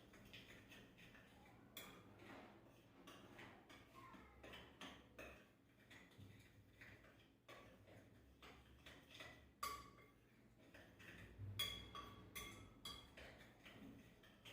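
Dry ingredients (flour, yeast and salt) being stirred in a bowl: faint, repeated scraping and tapping, with a few sharper ringing clinks against the bowl.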